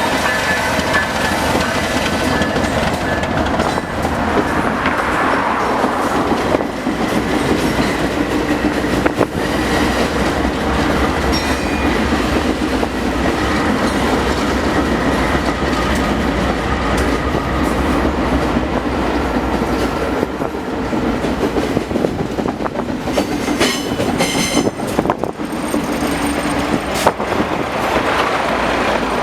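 Freight train wagons rolling past steadily: a low rumble with a rhythmic clickety-clack of wheels over rail joints and a thin high wheel tone at times.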